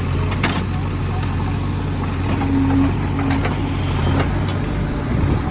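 A heavy diesel engine running steadily at idle, with a few short light knocks over it.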